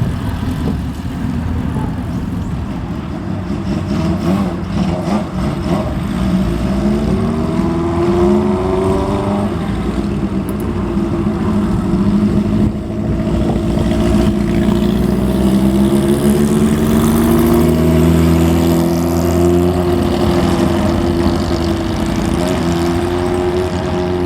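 Motorcycles riding out one after another, several engine notes overlapping and rising and falling as they rev and pass, loudest in the second half.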